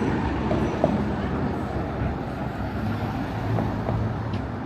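Busy city street ambience: a road vehicle's engine runs as a low, steady drone, with voices of passers-by in the background and a single sharp click just under a second in.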